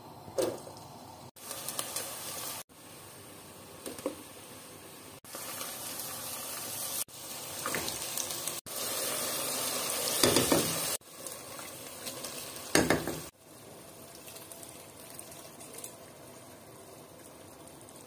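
Oil sizzling as onions and spice masala fry in a pot, with a spoon now and then stirring and scraping against the pan. The frying hiss keeps jumping in loudness at abrupt cuts every second or two.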